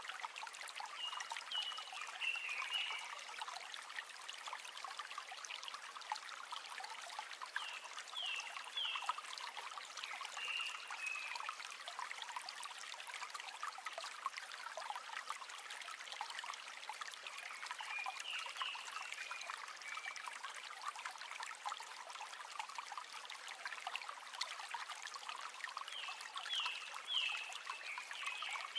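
A shallow river flowing, water trickling and bubbling steadily over stones. Groups of short, high falling chirps from an animal call out over it about every eight or nine seconds.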